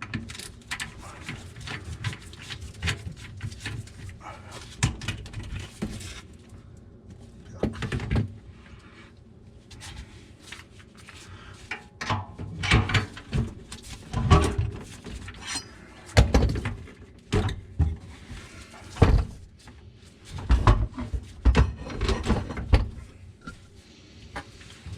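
Irregular clunks, knocks and rattles of a garbage disposal and its drain fittings being worked loose and handled under a kitchen sink, the loudest knocks coming in the second half.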